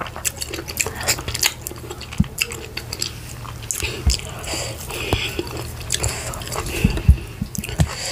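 Close-miked eating of garri fufu and efo riro vegetable soup with meat: wet chewing, lip smacks and mouth clicks in an irregular run. A few low thumps stand out, the loudest a pair about seven seconds in.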